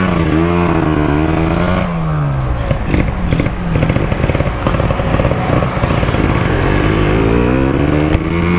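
Kawasaki Ninja 150 two-stroke single-cylinder engine, fitted in a Yamaha RX-King, running through an aftermarket exhaust. Its pitch falls about two seconds in, stays low and uneven through the middle, then climbs again near the end as the revs rise.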